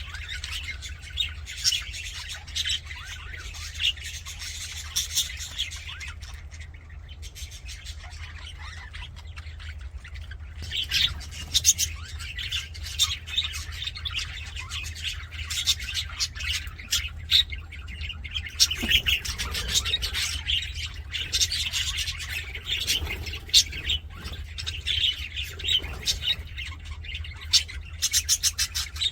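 A flock of budgerigars chattering with quick chirps and short squawks. The chatter thins out for a few seconds about a quarter of the way in, then grows busier again, over a steady low hum.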